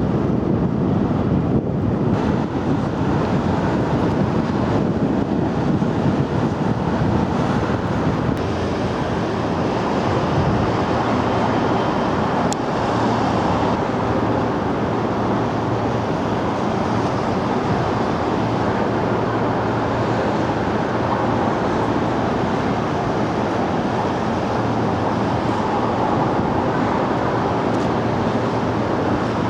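A boat's engine running steadily under a wash of rushing water and wind on the microphone.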